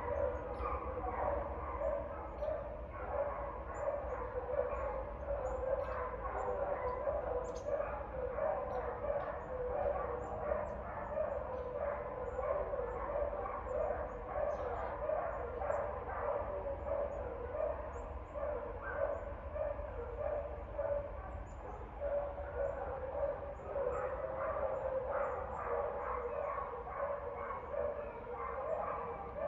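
Dogs barking over and over, a steady stream of barks coming every half second or so, over a low steady hum.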